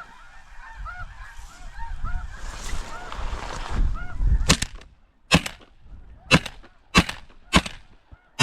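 Snow geese honking, then a shotgun fired six times in quick succession, each shot about a second apart, as a flock is shot at over the decoys.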